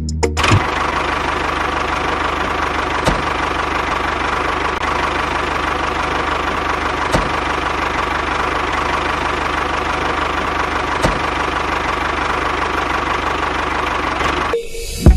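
A small motor running steadily, with a sharp click about every four seconds; it starts about half a second in and cuts off suddenly near the end.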